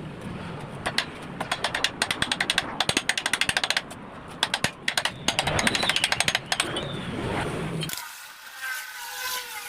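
Rapid bursts of sharp metal strikes, several a second in irregular runs, from a power tool working on a motorcycle muffler that is being gutted. About eight seconds in, it cuts off abruptly and a quieter sound with wavering tones follows.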